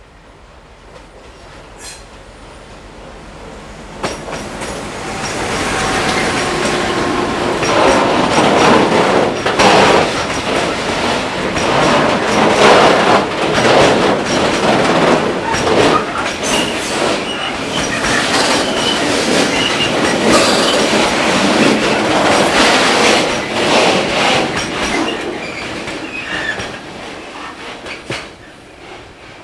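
Freight train rolling past at close range, its wagon wheels clattering over rail joints and squealing on the rails. It grows louder over the first few seconds and fades away near the end.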